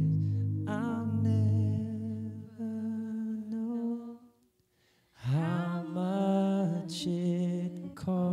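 Wordless sung melody, hummed or vocalized, over a sustained keyboard pad in worship music. The pad fades out about three seconds in. After a short pause in the middle comes one long held note.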